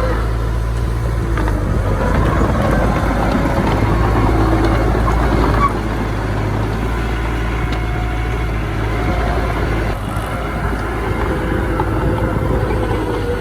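Heavy earthmoving machinery running, a steady engine rumble; the level drops suddenly about six seconds in.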